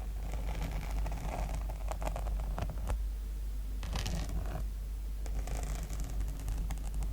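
Scratching across the sequin cover of a notebook: a dry, rasping scrape made of many fine clicks as the sequins flip, in repeated strokes.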